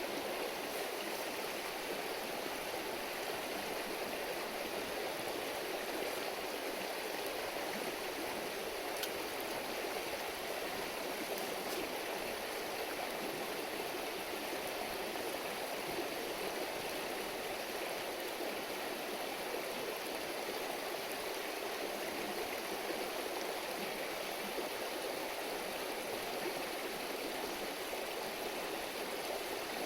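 River flowing over stones, a steady babbling rush of water. A couple of faint clicks stand out about a third of the way in.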